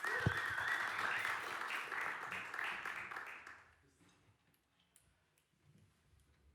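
Audience applauding, dying away about three and a half seconds in, then near silence with a few faint clicks.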